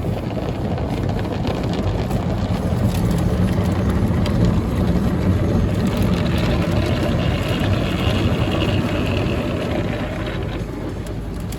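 Automatic tunnel car wash running, heard from inside the car's cabin: a steady rushing noise from the wash equipment, with a higher hiss joining in around the middle and fading near the end.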